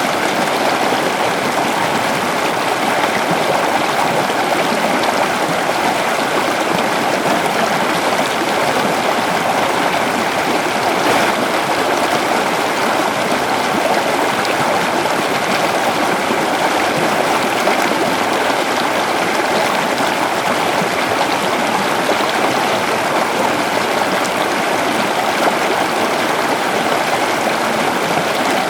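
River water flowing steadily: a constant, even rush of running water.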